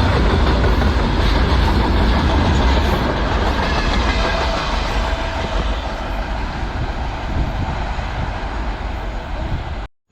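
Freight train wagons rolling past, a heavy low rumble of steel wheels on rail that slowly eases off, then stops dead near the end.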